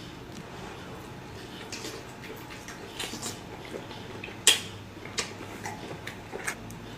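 Close-miked mukbang eating sounds: scattered wet clicks and smacks of chewing, with a sharp click about halfway through.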